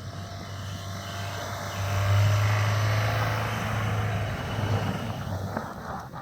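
Subaru Crosstrek's flat-four engine running under load as the car drives through deep snow, growing louder about two seconds in and easing off near the end, with a steady hiss over it.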